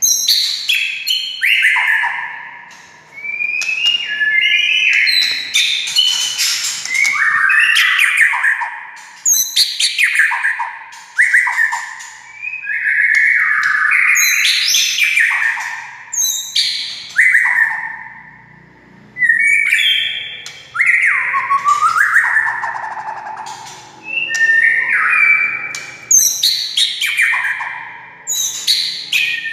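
White-rumped shama (murai batu) singing a varied song: phrases of slurred whistles, many falling in pitch, mixed with sharp clicking notes, a new phrase every second or two.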